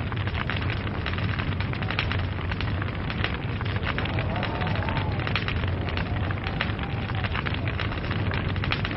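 Log fire crackling: dense, irregular pops and snaps of burning wood over a steady low rumble of the flames.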